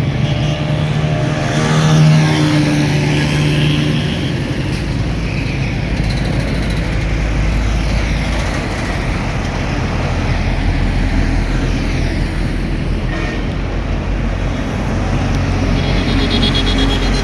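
Mixed road traffic of trucks, buses, cars and motorcycles passing close by, their engines and tyres making a continuous rumble. A heavy engine passes loudly in the first few seconds.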